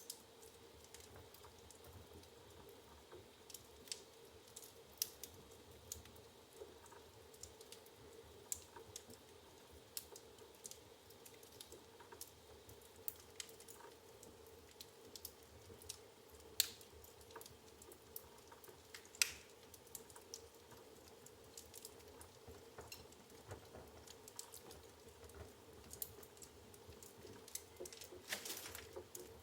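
Wood fire crackling in a fireplace: irregular sharp pops and snaps from the burning logs, two louder pops past the middle and a brief flurry of crackles near the end.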